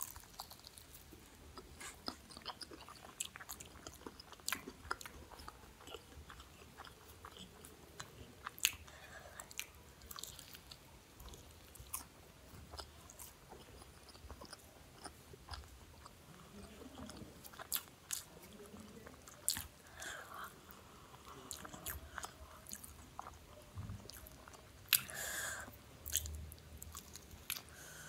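Close-up eating of samosas: biting and chewing, with many short irregular crunches and mouth clicks, and a louder bite near the end.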